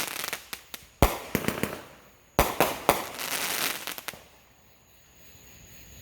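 Fireworks going off: loud sharp bangs about a second in and again about two and a half seconds in, amid a run of smaller cracks and crackling, dying away after about four seconds.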